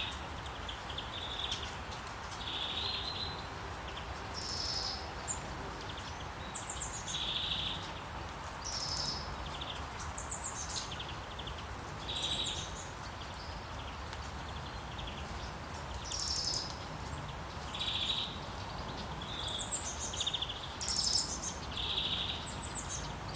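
Several birds calling and singing in short repeated phrases, a call every second or two, some sliding down in pitch, over a steady background hiss.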